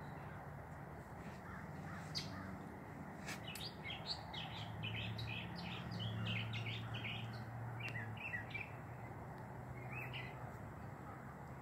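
Small birds chirping in a quick run of short, high calls, busiest in the middle, over a low steady hum.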